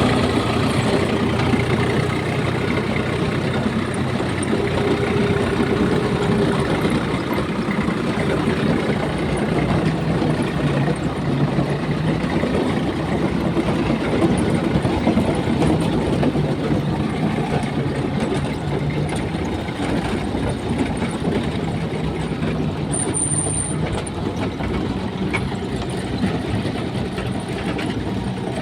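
Diesel tractor engine running steadily, with a continuous low engine note.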